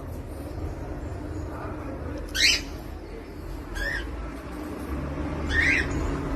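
A bird giving three short, separate chirps over a low background rumble; the first chirp, about two and a half seconds in, is the loudest.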